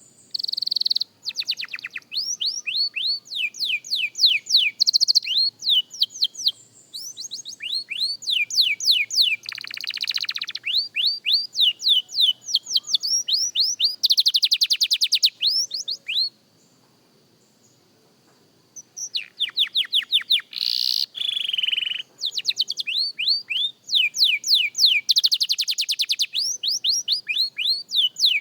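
Young domestic canary singing: fast trills of repeated down-slurred notes in runs of a second or two, with a pause of a couple of seconds a little past the middle.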